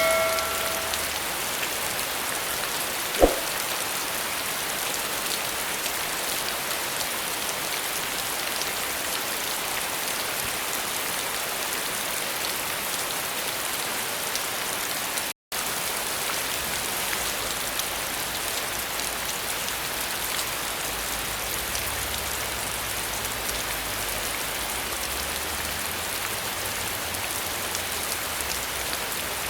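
Steady rain falling, an even hiss of many drops. A single sharp click about three seconds in, and the sound cuts out for an instant about halfway through.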